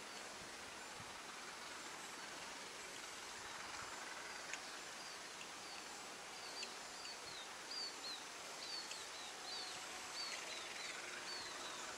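A bird calling over a steady outdoor hiss: short, high chirps that each drop in pitch, often in pairs, repeating from about four seconds in until near the end.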